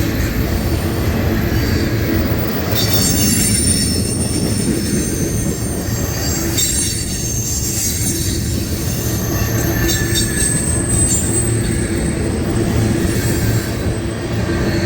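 Loaded ethanol tank cars of a long freight train rolling past with a steady low rumble. High-pitched wheel flange squeal comes and goes from about three seconds in.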